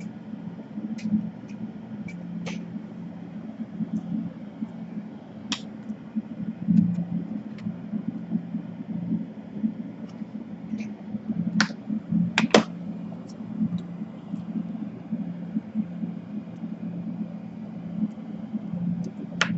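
Scattered sharp clicks and taps, as of plastic laptop parts being handled, two of them louder about twelve seconds in, over a steady low hum.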